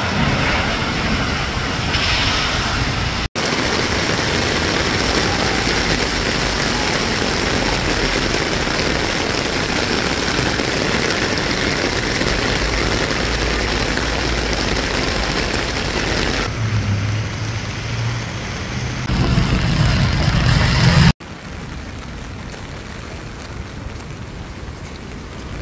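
Heavy rain pouring down in a steady hiss, changing abruptly in level at a few cuts and quieter near the end. A low rumble joins it for a few seconds past the middle.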